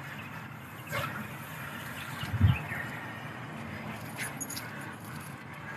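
Steady outdoor background noise, with a short click about a second in and a low thump about two and a half seconds in.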